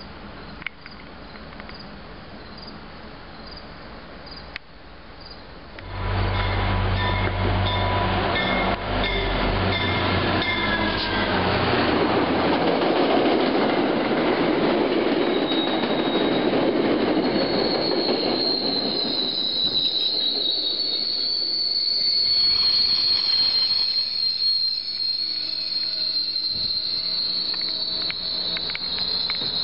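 MBTA diesel commuter rail train passing close at speed. A loud deep rumble with clattering wheel and rail noise starts suddenly about six seconds in, and from about eighteen seconds in a high, steady wheel squeal holds to the end.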